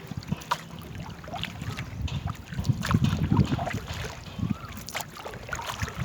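Small paddled rowboat on a river: wind gusting on the microphone in uneven low rumbles over water and paddle noise, with scattered sharp knocks.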